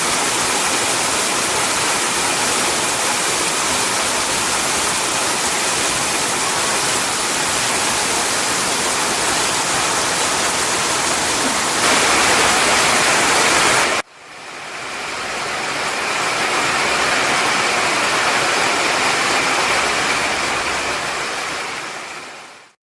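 Heavy storm rain pouring down as a steady, loud rushing hiss. It grows louder about twelve seconds in, cuts off abruptly two seconds later, swells back in, and fades out near the end.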